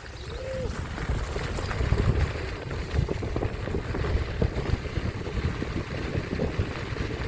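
Wind buffeting a microphone while riding: a steady low rumble with uneven gusting thumps.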